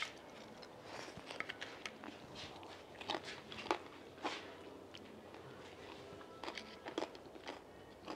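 Someone biting into and chewing a fried masa cazuelita: quiet, crisp crunches come a few at a time, with softer chewing between them.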